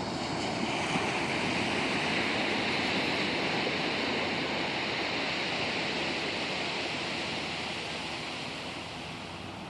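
Ocean surf washing on a beach: a steady rushing noise that swells within the first couple of seconds and fades away over the last few.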